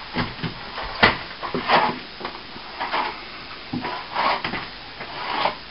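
Plastering tools at work: a string of short scrapes and clinks, with a sharp metallic tap about a second in.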